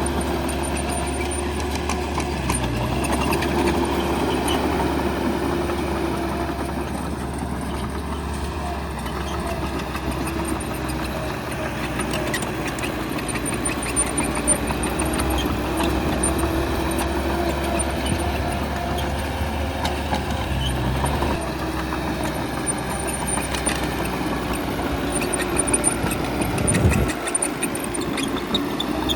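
Heavy diesel engine of a bulldozer running under changing load, its pitch rising and falling as it works, with a brief louder low surge near the end.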